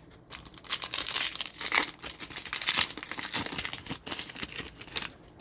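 Plastic trading-card pack wrapper being torn open and crinkled in the hands, a dense run of sharp crackles that thins out near the end.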